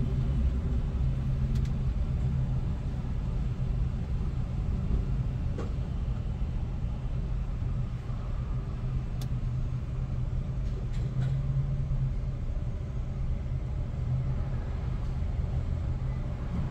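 An engine running with a steady low rumble and hum that swells a little now and then, with a few faint clicks.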